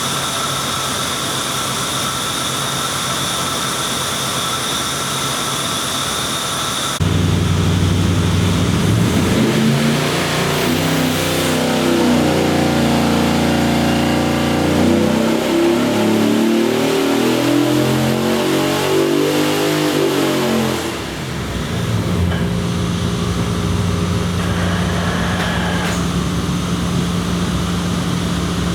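383 cubic-inch stroker LT1 V8 on an engine dyno. It runs steadily, then about seven seconds in the throttle opens and it pulls under load, the pitch climbing for about ten seconds, before it drops back to a steady lower speed.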